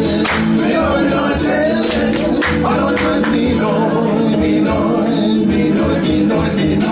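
Live band music with guitar and a steady, pulsing bass beat.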